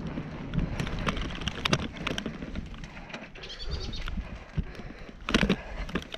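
Wind buffeting the microphone with a rough low rumble, broken by scattered knocks. A brief faint high-pitched call comes about three and a half seconds in.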